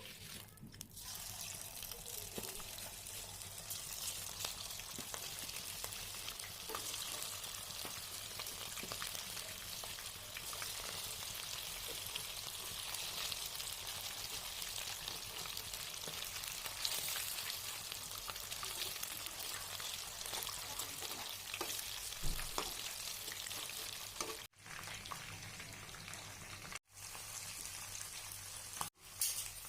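Chicken pieces deep-frying in hot oil, sizzling steadily, with a few abrupt cuts near the end.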